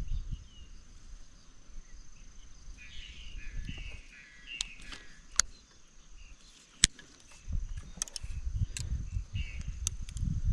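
A steady high-pitched insect drone, with short bird chirps a few times and several sharp clicks, the loudest about two-thirds of the way through, over low rumbling wind or handling noise.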